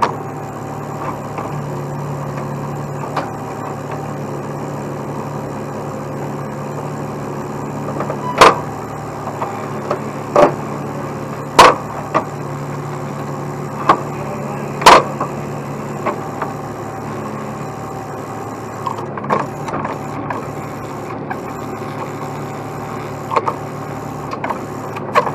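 Heavy truck's diesel engine running steadily, with a handful of sharp knocks over it, the loudest about eight, eleven and fifteen seconds in.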